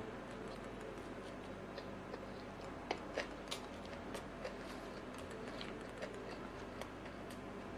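Soft eating sounds: small, irregular mouth clicks and chewing noises over a steady low hiss.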